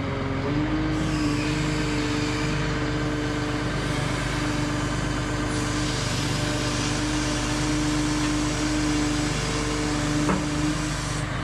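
Heavy construction machine's diesel engine running steadily, with a steady whine over the engine; a short click about ten seconds in.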